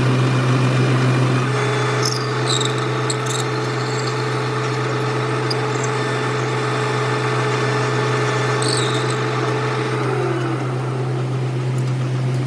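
Metal lathe running with a steady low hum. A higher tone drops in pitch about ten seconds in, and brief high squeaks come about two seconds in and again near nine seconds.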